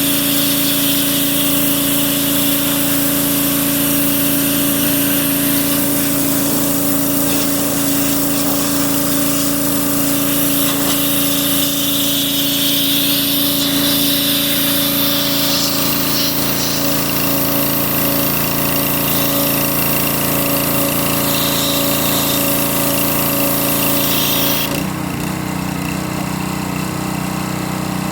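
A motor-driven machine running steadily with a constant hum and hiss; its sound drops and changes about 25 seconds in.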